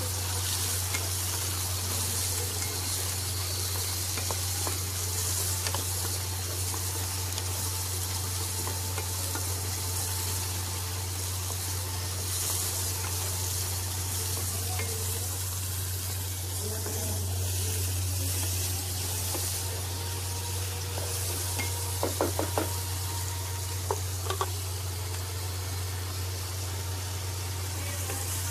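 Sliced onion and capsicum sizzling in hot oil in a kadhai as they are stir-fried with a metal spatula, over a steady low hum. A few sharp knocks of the spatula on the pan come a little over three-quarters of the way through.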